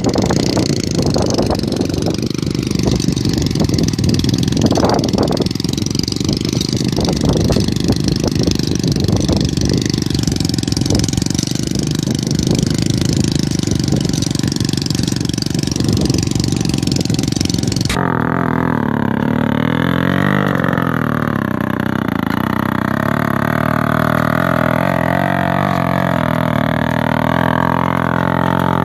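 A vehicle engine running with a rough, steady rumble. About eighteen seconds in it cuts off suddenly and music with a low droning tone takes over.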